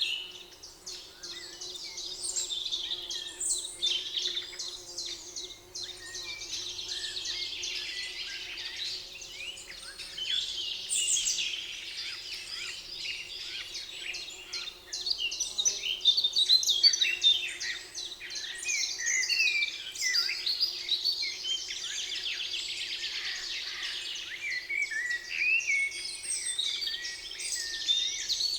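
Several songbirds singing and chirping together in a spring forest chorus, with overlapping trills and fast rapid-note phrases throughout, over a faint steady low hum.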